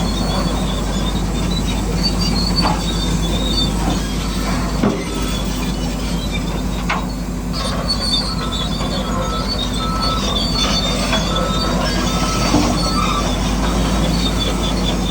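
Radio-controlled construction machine's electric motors and gearboxes whining steadily, with wavering high-pitched squeals over a low hum and a few sharp clicks.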